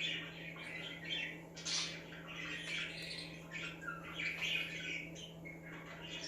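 Budgies chattering and chirping without a break, a busy mix of warbling and sharp chirps, over a steady low hum.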